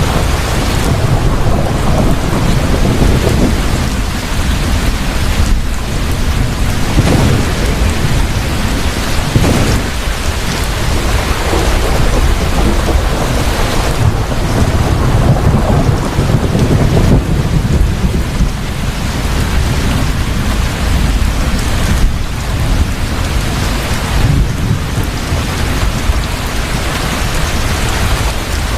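Heavy rain pouring steadily in a thunderstorm, with low rolling thunder rumbling that swells and fades several times.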